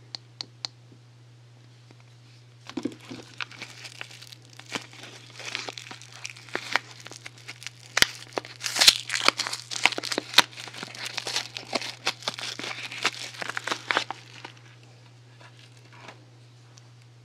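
Soap packaging being unwrapped by hand: dense crinkling and crackling of wrapping for about twelve seconds, starting a few seconds in and dying away near the end, after a few light clicks at the start. A steady low hum runs underneath.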